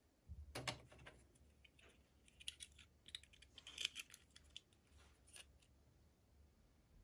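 Faint, irregular clicks and scratchy taps of small toy packaging being handled and opened, busiest in the middle stretch.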